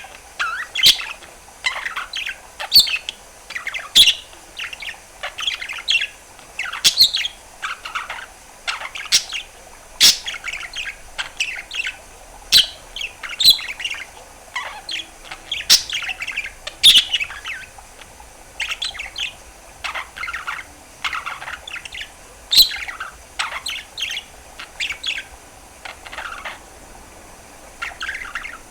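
Budgerigar warbling: a continuous run of chirps, trills and sharp clicks.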